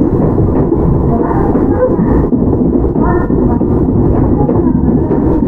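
Interior running noise of a Toyama Chihō Railway 17480-series electric car (ex-Tokyu 8090), a steady low rumble inside the carriage, with faint voices over it.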